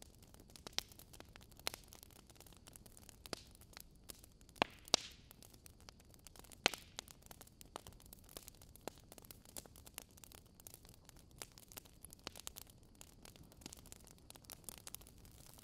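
Wood fire in a fireplace crackling: irregular sharp snaps and pops over a faint steady hiss, with a few louder pops around the fifth and seventh seconds.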